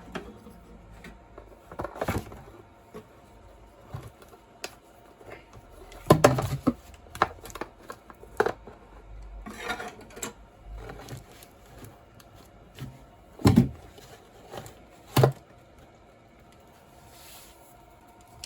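Handling noise: scattered clicks and knocks, a few sharper ones about two, six, thirteen and fifteen seconds in, as a fuel-line pinch clamp and a catch bottle are worked by hand to drain fuel from a Tecumseh lawnmower engine.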